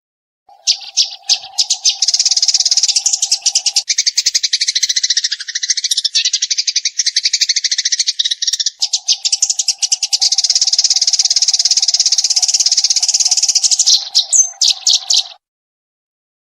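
Eurasian tree sparrow chirping in a fast, unbroken rapid-fire run of high chirps. It starts about half a second in and cuts off abruptly near the end, with a few separate chirps just before the stop. A steady low hum runs under much of it.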